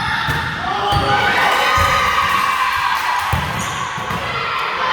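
Several women shouting and calling out together during a volleyball match, over irregular thuds of the ball and feet on a gym floor.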